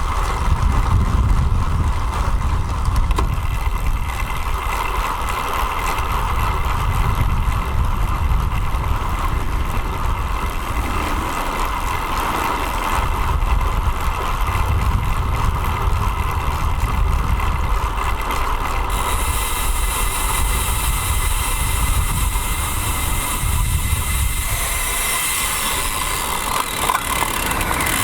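Steady low rumble of wind and road noise on a bicycle-mounted action camera's microphone while riding, with traffic around; about two-thirds through a high hiss joins and keeps on.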